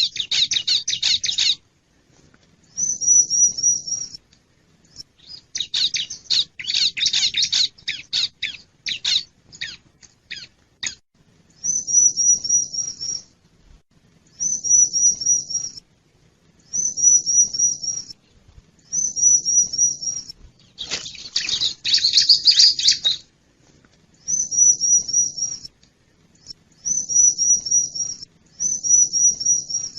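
Bar-winged prinia (ciblek) calls used as a trapping lure: bursts of rapid, scratchy chattering alternate with a short phrase of quick high notes repeated about every two seconds.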